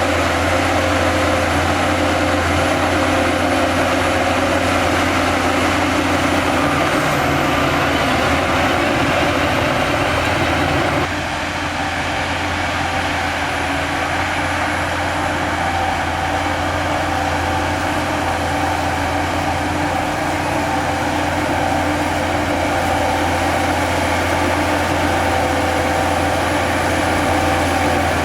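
Heavy diesel earthmoving machinery running steadily with a deep, continuous drone. The level dips slightly about eleven seconds in.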